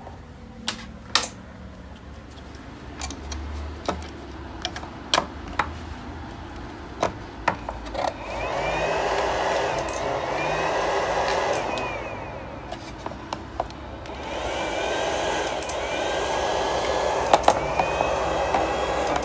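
A few sharp clicks as the leads and switch are worked. Then a power inverter's cooling fan spins up with a steady whirring rush, stops for a couple of seconds, and runs again with the unit powered from 12 volts.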